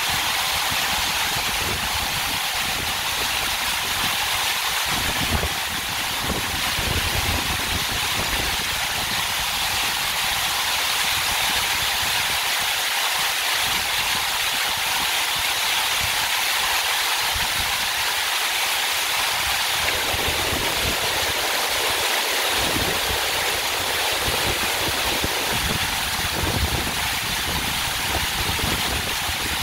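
Waterfall crashing steadily into its pool, heard from close below the falls: a continuous rushing hiss of water with an uneven low rumble underneath.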